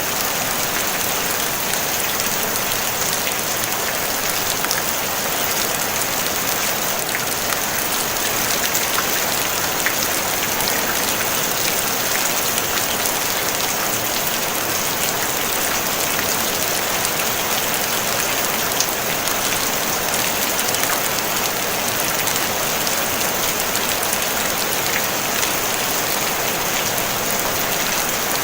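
Steady rain falling on a tin roof: an even hiss sprinkled with many small drop ticks.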